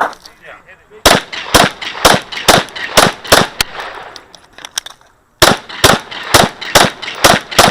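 Rapid pistol fire from a 9 mm Glock 34: a string of about seven shots, roughly two a second, then after a brief cut-out a second string of about six, each shot followed by a short echo.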